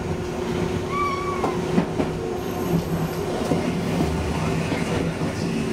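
Running noise heard inside a moving electric train car: a steady motor hum over a low rumble, with scattered clicks of the wheels over the rail joints. A brief high squeal about a second in.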